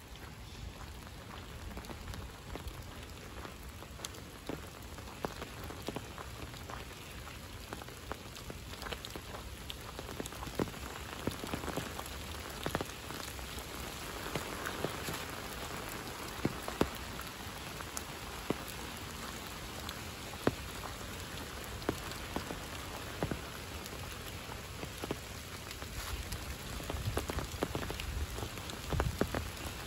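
Steady rain falling, with many separate drops tapping close by over the even hiss of the downpour. A low rumble grows near the end.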